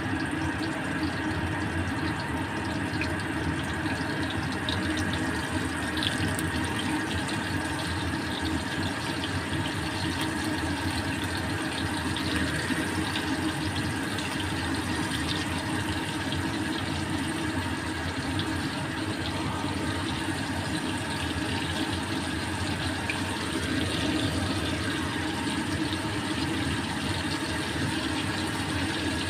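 Flour-coated beef liver slices sizzling steadily as they shallow-fry over low heat in a little oil in a stainless steel wok, with a faint steady hum underneath.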